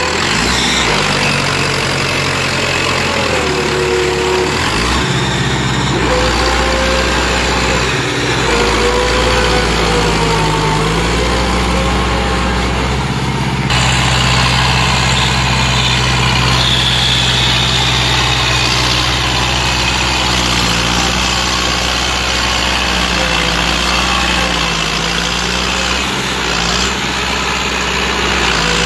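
Farm tractor engine running steadily and loudly, its pitch rising and falling several times as the throttle changes.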